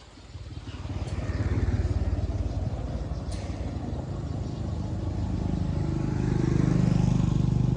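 Jeep engine running, growing louder over the first two seconds, then running steadily with a rise in level and pitch about five seconds in.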